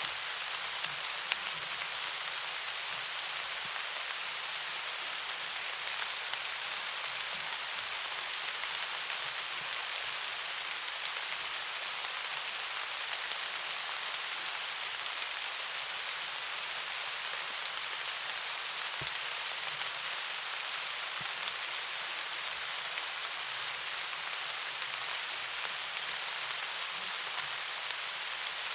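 Steady rain falling: an even hiss of rain with a few faint drop ticks scattered through it.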